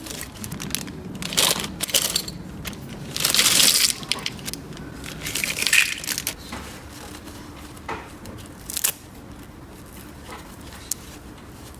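Small plastic toy pieces being handled: irregular clicks and taps, with a crinkling rustle about three to four seconds in and another near six seconds, then a few isolated ticks.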